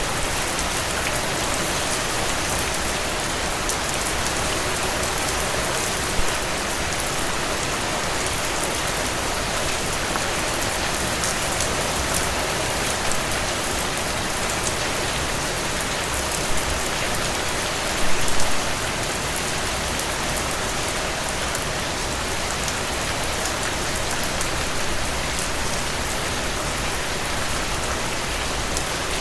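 Steady rain falling, an even hiss of many small drops, with a few louder drop hits: one about six seconds in and a short cluster about eighteen seconds in.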